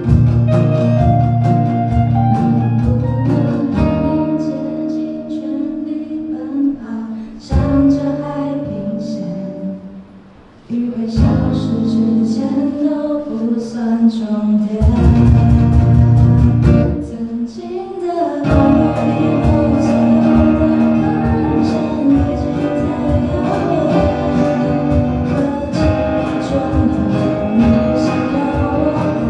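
Live band playing a song with guitars and singing. Around ten seconds in the music thins out and drops quieter, then comes back in full about a second later.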